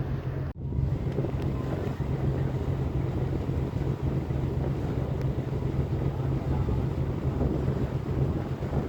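Ferry boat engine running with a steady low drone, with wind buffeting the microphone. The sound drops out briefly about half a second in.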